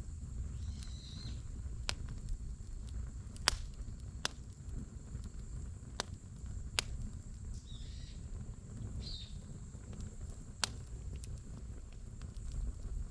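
Firewood burning in a fire pit, crackling with sharp single pops every second or two at irregular intervals over a low steady rumble.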